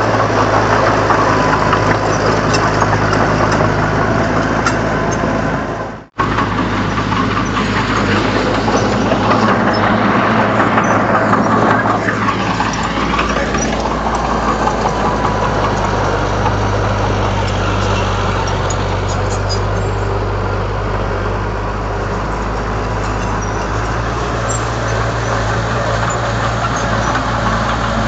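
Heavy diesel engine of a Komatsu D31 bulldozer running steadily under work. The sound cuts out for a moment about six seconds in.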